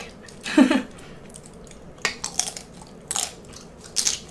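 Close crunching of deep-fried salt and pepper shrimp being bitten and chewed, with three or four crisp crunches about two, three and four seconds in. A short voiced sound, falling in pitch, comes about half a second in.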